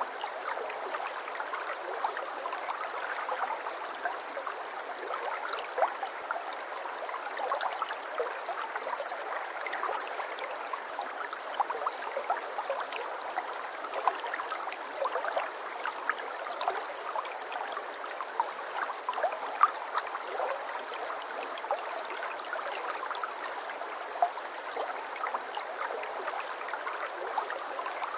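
Shallow brook babbling over stones: a steady rush of water, with many small splashes flicking through it.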